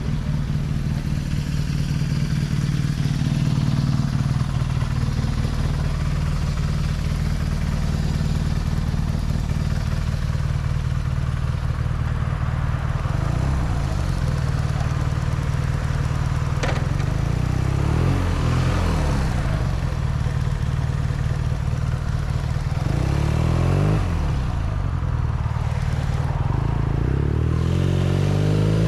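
BMW R nineT's air/oil-cooled boxer twin running steadily on the road. The engine pitch shifts a few times, then climbs near the end as the bike accelerates.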